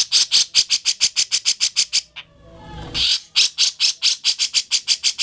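Grey-cheeked bulbul (cucak jenggot) singing a fast chattering run of sharp, high notes, about eight a second. The song breaks off about two seconds in and starts again a second later.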